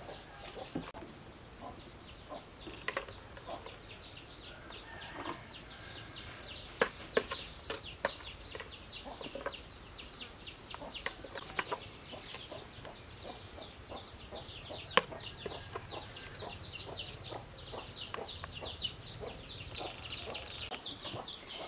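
Birds chirping in a rapid run of short, high, falling notes, several a second, starting about six seconds in. Under it are scattered light clinks of a metal fork and spoon against a plate and bowl.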